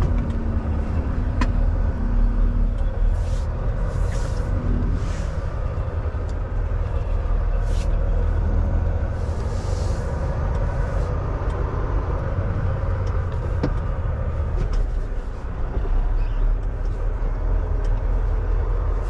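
Semi truck's diesel engine running at low speed with a steady low rumble while the truck turns around, with several short hisses of air partway through.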